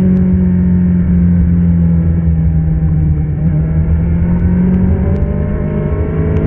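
Middleweight superbike engine running with a steady note that eases down slightly, then rises as the throttle opens about two-thirds of the way through.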